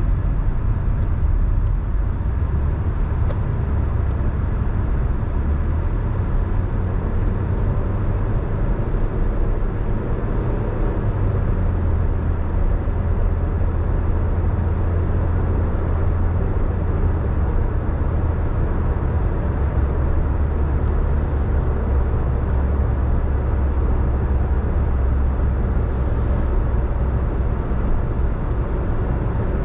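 Steady road noise of a car being driven in the rain: a low drone of engine and tyres on the wet road. The drone shifts slightly higher about a third of the way in.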